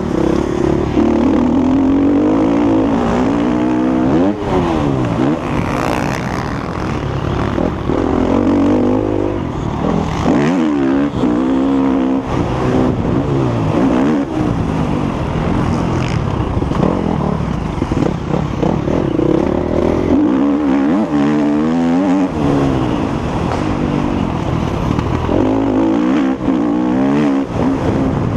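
Motocross bike engine revving hard, its pitch climbing and dropping again and again as the throttle is opened and closed around the track.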